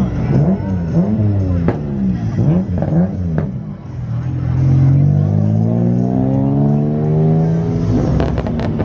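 Drag-racing car engines: first revving up and down in quick blips, then one engine pulling hard with its pitch rising steadily for about four seconds as the car accelerates down the strip. A few sharp clicks come near the end.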